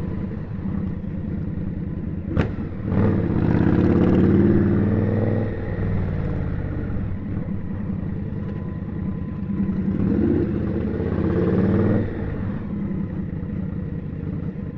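Indian Scout motorcycle's V-twin engine running under the rider, swelling and rising in pitch as it accelerates about three seconds in and again about ten seconds in, easing back between. A brief sharp click comes just before the first pull.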